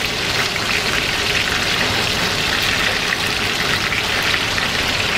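Bourbon-marinated boneless chicken thighs sizzling steadily in a skillet, a constant crackling fry in the oil and sauce.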